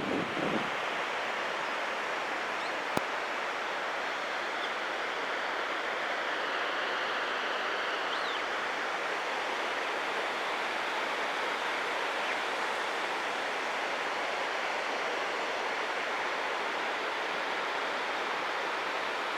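Steady rush of a waterfall, an even hiss of falling water, with a single sharp click about three seconds in.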